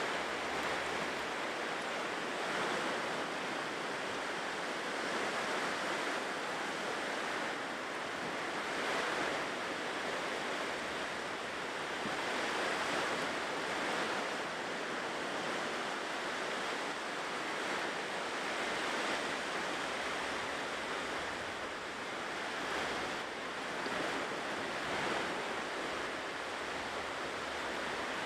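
Ocean surf washing onto a shore: a steady rush of breaking waves that swells and eases every few seconds.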